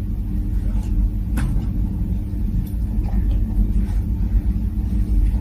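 Steady low rumble with a constant hum, like an engine running, and a single sharp click about one and a half seconds in.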